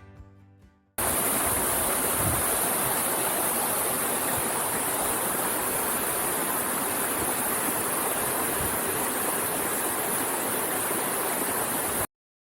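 Waterfall, a 36 m fall, giving a steady, even rush of falling water. It cuts in suddenly about a second in and stops abruptly near the end.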